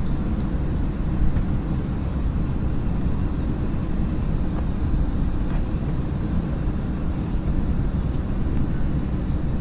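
Steady low rumble inside the cabin of an Airbus A321-200 on the ground, the aircraft's ventilation and machinery noise, with no change in pitch.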